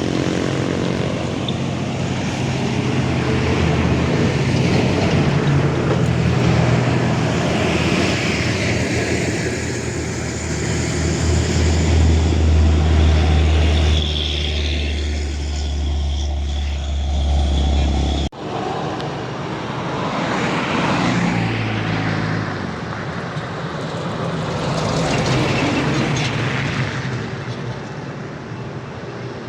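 Heavy diesel truck engines running low and loud, rising and falling as they work on a steep climb. The sound cuts off suddenly about eighteen seconds in, and a similar engine sound carries on after it.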